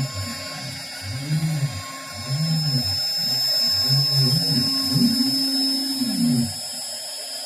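CNC router cutting wood: a steady high whine runs throughout, under a lower motor tone that rises and falls in pitch in arcs about once a second.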